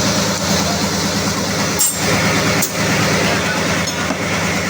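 Loud, steady running of diesel machinery in a ship's engine room, a constant low drone with a hiss above it. Two short metallic clicks come about two seconds in and a little later.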